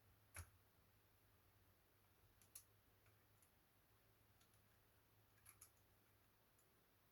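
Near silence with a few faint, sharp clicks from handling laptop parts: one about half a second in, one a couple of seconds later, and a quick pair near the end.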